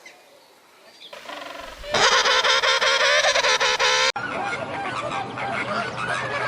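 A flock of waterfowl honking and calling together, many overlapping calls, starting after a quiet first second and loud from about two seconds in. At about four seconds it cuts abruptly to a different busy chorus of animal calls.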